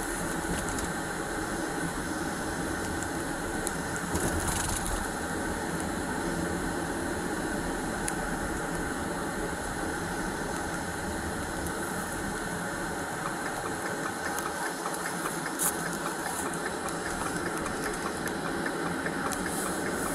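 A vehicle engine running with steady road and cabin noise, and a few faint ticks or rattles.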